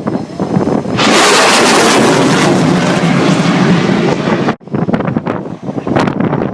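Wind buffeting the microphone. From about a second in, a loud rushing roar takes over, then cuts off suddenly a few seconds later.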